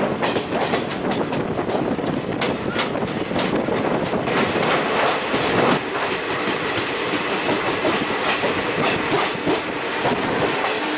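A passenger train running past a loaded freight train of open coal wagons on the adjacent track: a steady rushing rumble of wheels on rail, with a continual clickety-clack of sharp clicks.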